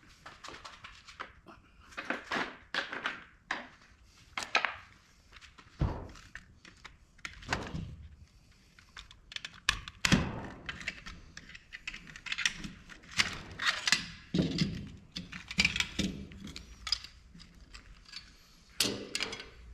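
Irregular knocks, clicks and rattles of a dome security camera's plastic and metal parts being handled and taken apart, with the loudest knock about ten seconds in.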